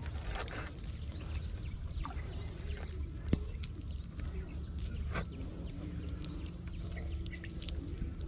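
Birds chirping here and there over a steady low rumble, with a sharp click a little past three seconds in and a fainter one about two seconds later.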